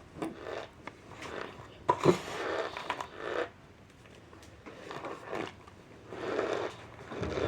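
Close-up mouth sounds of someone chewing and crunching cornstarch chunks. The bursts are irregular and come about every half second to a second, with a few sharp crunches near the two-second mark.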